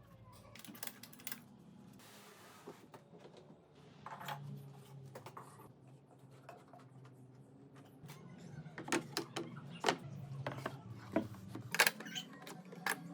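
Irregular light clicks and knocks from handling and tapping wooden workpieces, busier and louder in the second half, over a faint low hum.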